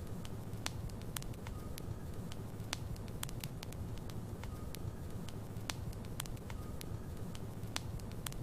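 Wood logs burning in a fireplace: a steady low rumble of the fire with irregular sharp crackles and pops from the burning wood. A faint, brief high whistle recurs a few times.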